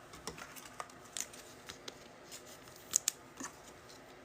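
Football trading cards being handled and flipped through one by one: scattered light clicks and ticks of card stock, the loudest about three seconds in.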